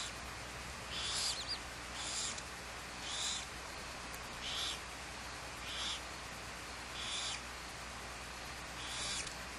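Barn owl snoring calls: a series of short, hoarse hisses, roughly one a second, each under half a second long. These are the food-begging calls given at the nest.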